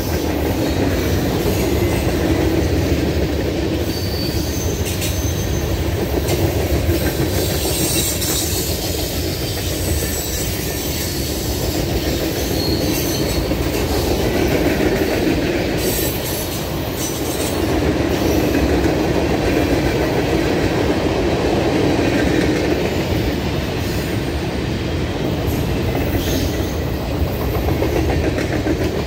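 Cars of a Norfolk Southern mixed freight train rolling past close by: a steady rumble and clatter of steel wheels on the rails that swells and eases as the cars go by, with brief high-pitched wheel squeals now and then.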